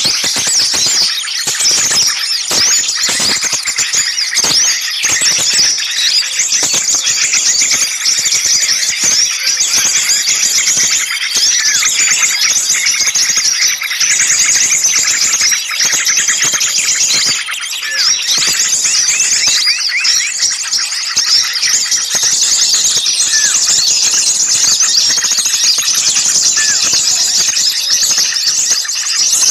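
Dense, noisy chorus of many small songbirds chirping and twittering over one another without a break, high-pitched, in a bird-lure recording made to draw small birds in.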